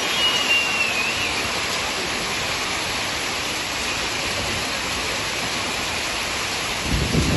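Hailstorm: hail and heavy rain pelting down in a steady, dense hiss. A brief low buffeting comes near the end.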